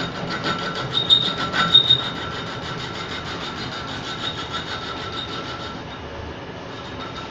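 Metal lathe running and cutting, with a steady high-pitched squeal from the tool rubbing on the workpiece over a fast, even pulsing; the squeal is loudest about one to two seconds in.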